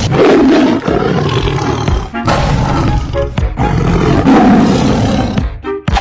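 Background music with a loud animal roar sound effect laid over it, twice: a roar of about two seconds, then a longer one.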